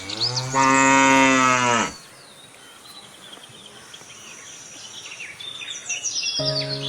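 A cow mooing: one long moo of about two seconds, then a second moo starting near the end, with birds chirping faintly between them.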